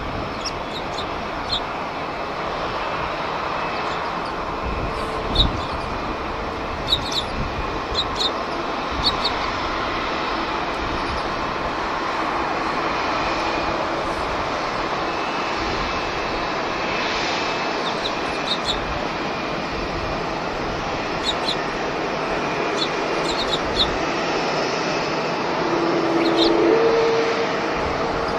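Jet airliner engines at a distance, a steady noise that swells near the end as a low hum comes in. Short high chirps sound here and there throughout.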